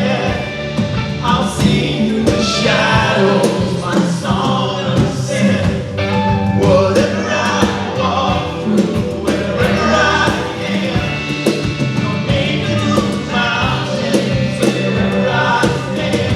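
Live worship band playing a contemporary Christian song, with singers and drums.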